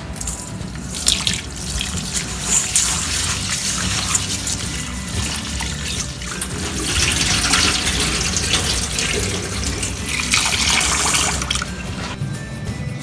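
Kitchen tap water running into a glass bowl of rice in a stainless steel sink as a hand swishes the rice to wash it. The water is loudest twice, about a second in and again in the second half.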